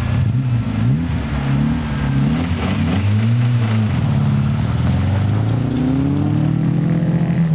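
Two small rally-car engines, a Peugeot 205 1.1-litre and a Toyota Corolla 1.3-litre, revving hard together as the cars launch side by side on snow. The engine notes rise and fall several times as they rev and shift.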